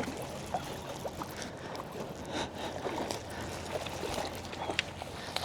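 Water trickling and splashing against a kayak's hull, with scattered small clicks and knocks.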